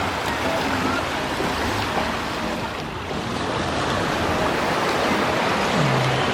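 Steady rush of river water, an even hiss with no breaks.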